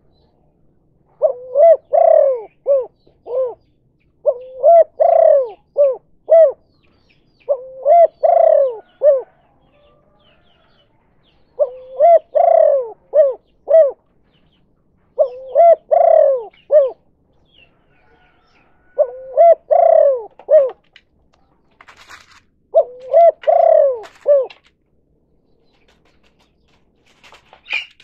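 Spotted dove cooing its 'kuk 2' song, seven times: each phrase is a longer, rough coo followed by a few short notes, repeated every three to four seconds.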